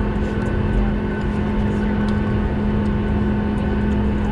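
Steady drone inside the cabin of a Boeing 737 in flight: a low rumble of engine and airflow noise with a constant hum.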